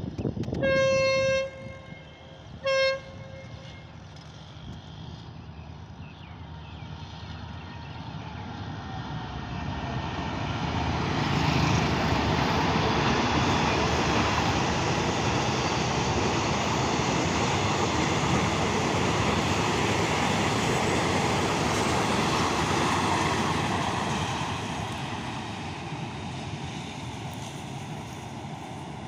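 Diesel train horn sounding one long and one short single-note blast, then a train running past the platform, its rumble building for several seconds, staying loud for about twelve seconds, then easing off.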